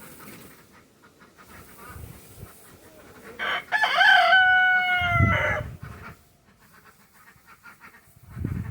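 A rooster crows once: a single long, loud call a few seconds in that rises, holds for about two seconds and falls away, amid softer bird calls and rustling. A dull thud comes near the end.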